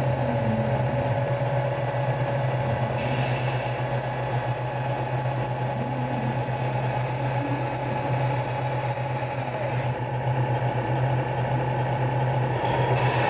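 Radio-controlled Scania model truck running with a steady, engine-like low hum.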